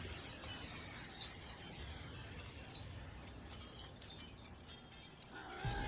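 Faint cracking and shattering sound effect from an anime soundtrack over a low rumble. A held tone comes in near the end.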